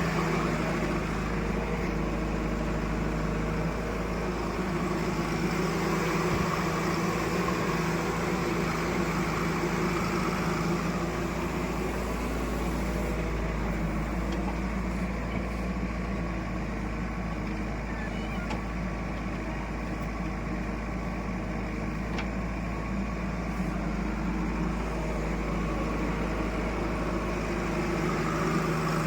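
Heavy diesel engine running at a steady speed.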